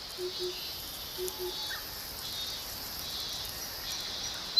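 Summer forest ambience: a steady high-pitched chorus of insects, with a low two-note call repeating about once a second in the first second and a half.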